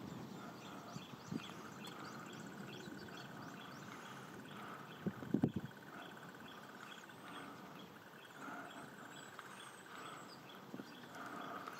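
Outdoor chorus of small calling animals: a steady trill with evenly repeated chirps over it. A brief low thump comes about five seconds in.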